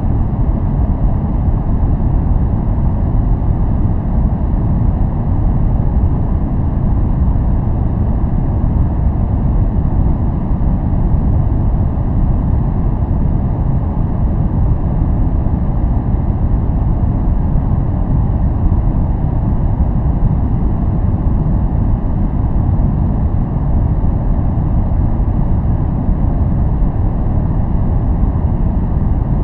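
Steady synthetic noise played for focus, deep and rumbling rather than hissy, with no change or break.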